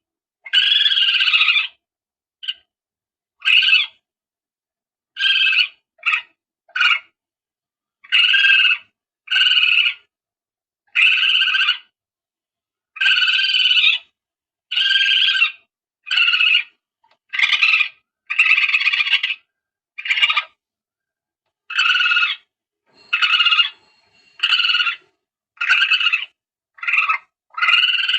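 Recorded palm civet calls played as a hunting lure: short cries, each under about a second, repeated every second or two with dead silence between them.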